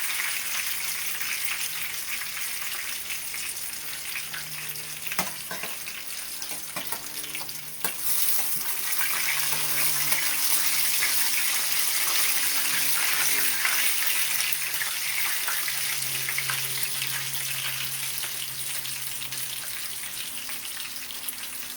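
Chicken frying in hot oil in a skillet: a steady sizzle that gets louder about eight seconds in, with a couple of sharp knocks.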